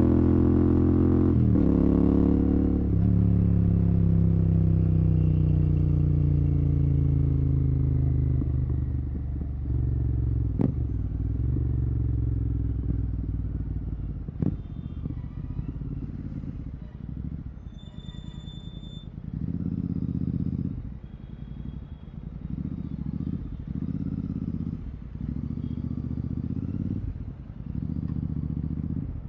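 Royal Enfield Continental GT 650's parallel-twin engine through a Red Rooster exhaust with no dB killer, its note falling steadily as the bike slows off the throttle. It then drops to a low rumble that rises and falls with short, repeated bursts of throttle at low speed.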